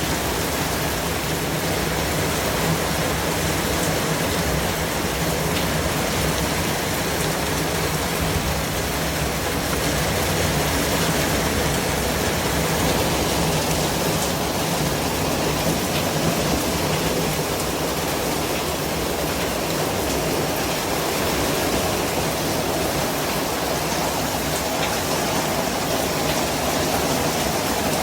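Steady white noise, an even hiss that holds unchanged throughout with no breaks or individual events.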